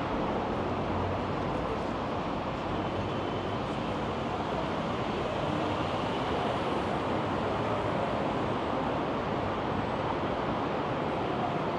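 Steady outdoor city ambience on a harbourside walk: an even, unbroken wash of noise with no single sound standing out.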